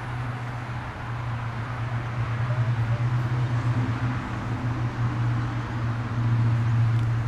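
A vehicle's engine running with a steady low hum over a rushing noise, growing louder as it draws nearer.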